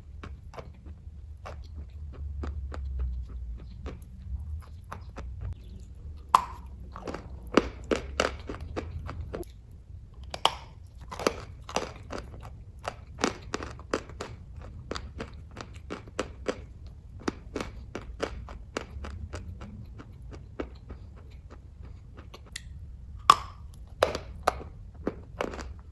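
Close-up chewing of kaju katli (cashew fudge): a run of sharp, irregular mouth clicks and smacks, loudest about six to eight seconds in and again near the end, over a low steady hum.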